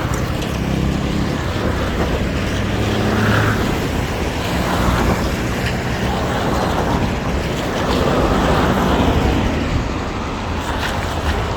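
City traffic on a rain-wet road: vehicles pass with tyres hissing on the wet surface over a low engine hum. The noise swells as each vehicle goes by.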